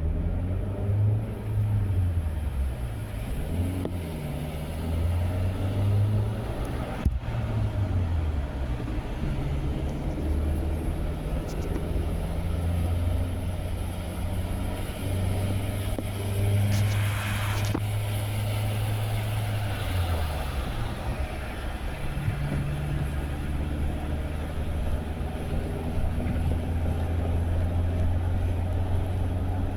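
Car engine and road noise while driving. The engine drone rises and falls in pitch several times as the car speeds up and eases off. There is a single click about seven seconds in, and a short hiss a little past the middle.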